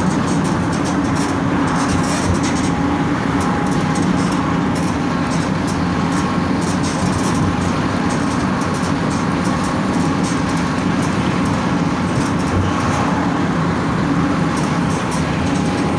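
Mercedes-Benz OF 1722M bus's OM 924 LA 4.8-litre four-cylinder diesel running steadily at an even engine speed, with scattered light rattles over the drone.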